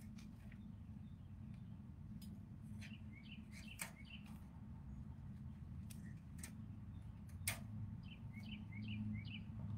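A songbird chirping in short quick runs of notes, a few times over, against a steady low rumble, with a couple of sharp clicks, the loudest just past halfway.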